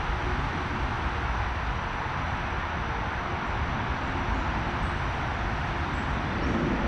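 Steady rush of road traffic noise from a major road, an even hiss with a low rumble beneath it.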